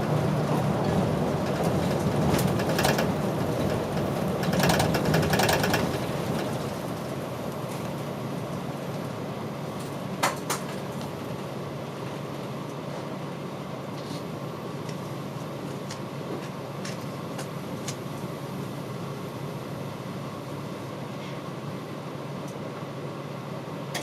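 Route bus slowing to a stop, then its diesel engine idling with a steady low hum. There is clicking in the first few seconds and a single sharp click about ten seconds in.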